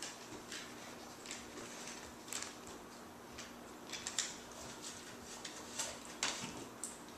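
Dog eating: a string of irregular small crunches and clicks as it chews and picks up food, about a dozen in all, the loudest around four and six seconds in.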